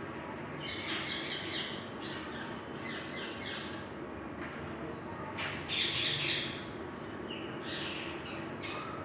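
Birds chirping in short repeated bursts of high calls, loudest about six seconds in, over a steady low hum.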